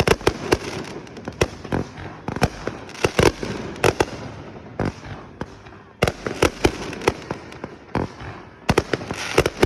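A pile of burning fireworks going off after catching fire: irregular sharp bangs and cracks, sometimes several a second in quick clusters, with steady hissing and crackling between them.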